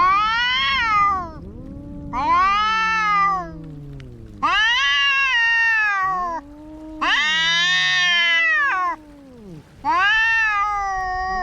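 Cats caterwauling in a fight standoff: five long, loud yowls that rise and fall in pitch, with lower, quieter yowls in between.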